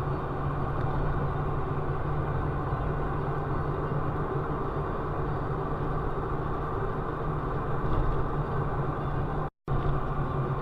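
A motor vehicle's engine running steadily, a continuous even hum, heard as from a dashcam. The sound drops out for a moment near the end.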